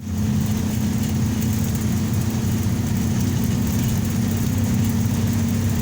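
Steady motor-vehicle engine and tyre noise on a highway, a constant low hum with one steady drone.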